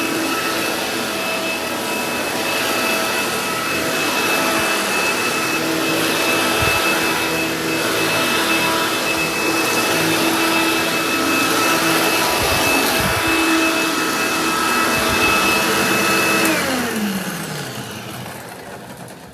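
Hoover Dial-A-Matic vacuum cleaner running with a steady motor whine. About sixteen seconds in it is switched off, and its pitch falls as the motor winds down.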